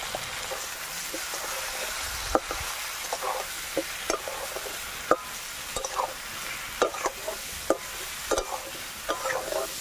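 Potato and green banana pieces sizzling in hot oil in a metal kadai while a spatula stirs them, scraping and knocking against the pan at irregular moments.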